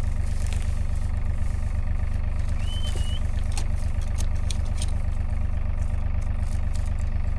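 An engine running steadily at idle, an even low hum. A short high chirp rises and holds for half a second about three seconds in.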